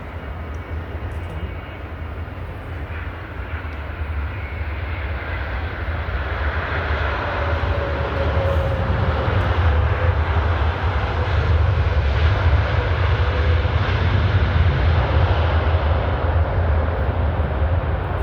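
Boeing 787-9's Rolls-Royce Trent 1000 jet engines on landing approach, a steady rumble swelling louder as the airliner passes, with a faint falling whine partway through.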